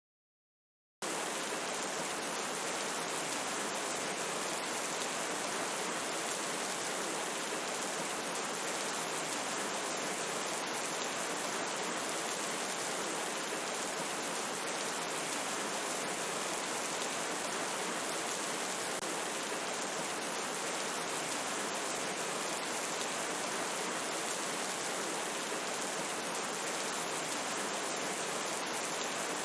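Steady, even rain that starts abruptly about a second in, after a moment of silence, and holds at one level.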